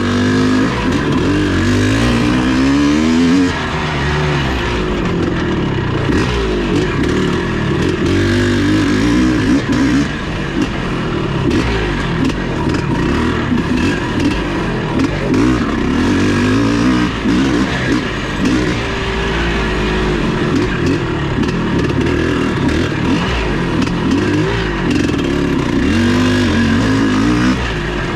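Vintage off-road motorcycle engine revving up and down as it is ridden hard, its pitch rising and falling every second or two, over a constant rough noise.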